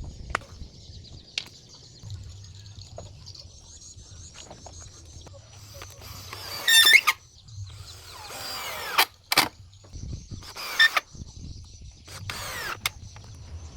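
Power tool cutting wood in several short bursts, each under a second long, the loudest about halfway through.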